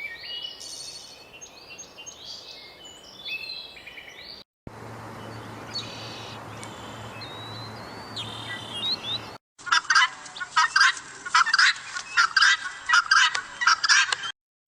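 Birds calling in three short edited clips: high chirping first, then a few chirps over a low hum, then a rapid series of loud calls, several a second, in the last few seconds.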